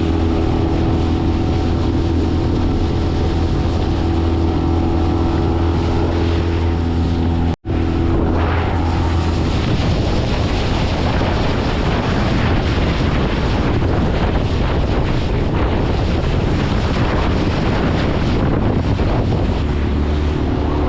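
Honda BF20 four-stroke outboard motor running steadily at speed, with wind buffeting the microphone and water rushing past the hull. The sound cuts out for an instant about seven and a half seconds in; after it the wind and water noise covers much of the engine's hum.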